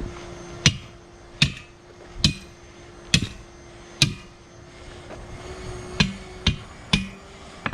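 Hammer-like metal blows on a big truck tire and its steel rim while the bead is worked with tire irons. Five strikes a little under a second apart, a pause of about two seconds, then four quicker strikes near the end.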